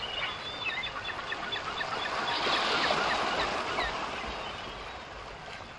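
Birds chirping and calling in short, gliding notes over a steady hiss; it swells about two seconds in and fades toward the end.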